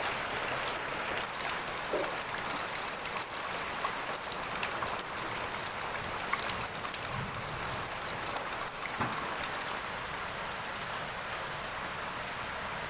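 Steady rain falling, a constant hiss with scattered drop sounds, easing slightly in its highest part near the end.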